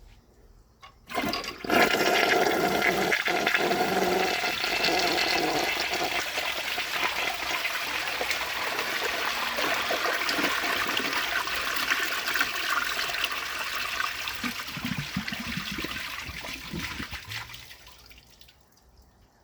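1969 American Standard Cadet elongated toilet flushing: a click about a second in, then a loud rush of water for about sixteen seconds that slowly tapers off, with a few low gurgles near the end.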